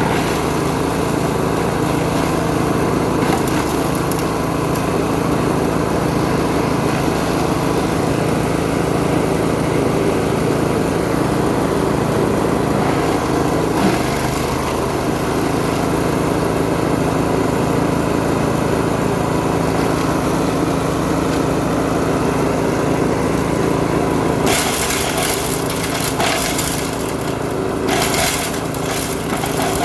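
Small engine driving a shredder/wood chipper, running steadily at speed. About three-quarters of the way in, loud irregular crackling bursts start as material goes through the cutters.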